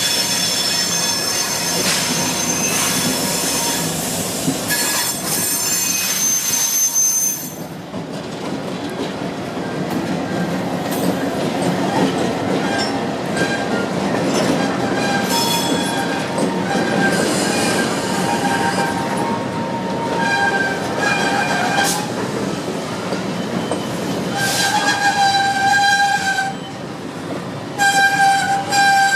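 Canadian Pacific freight train rolling past slowly, cars rumbling on the track. The wheels give off high squealing tones that come and go, loudest in the first several seconds and again near the end.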